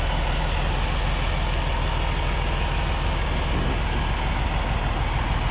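Peterbilt truck's diesel engine idling steadily.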